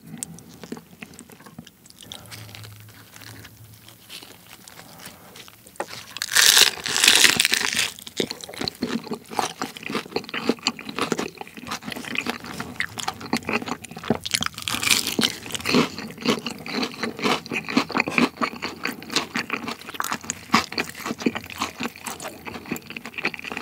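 Crispy glazed fried chicken (Kyochon Honey Combo) bitten with a loud crunch about six seconds in, eaten together with a chewy tteokbokki rice cake, then chewed with rapid, steady crunching, close to the microphone.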